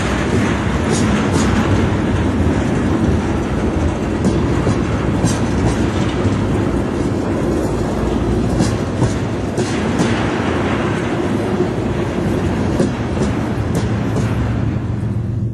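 A freight train of tank cars rolling past, a steady rumble and rattle of steel wheels on the rails, with sharp clicks every few seconds, often in pairs, as the wheels cross rail joints.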